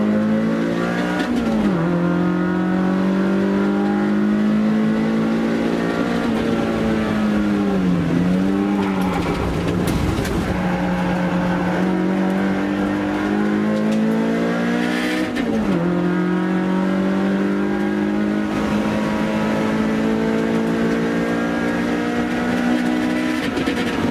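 Toyota AE86 Corolla's 4A-GE twin-cam four-cylinder engine running hard, heard from inside the cabin, its note holding fairly steady and then dipping sharply and recovering about three times, as the driver lifts off or changes gear.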